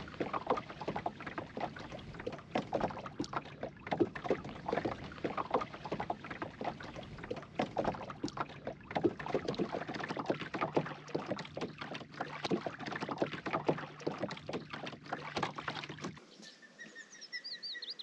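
Small boat moving across the water, with irregular splashing and knocking. About two seconds before the end it cuts to quieter birdsong, short high chirps.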